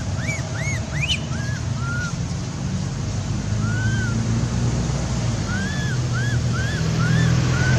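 Short high whistle-like calls, each rising then falling in pitch, repeated in quick runs near the start and again in the last couple of seconds, over a steady low rumble of wind noise.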